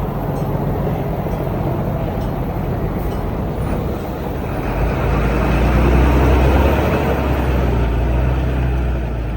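Diesel engine of heavy construction machinery running steadily, growing louder about halfway through.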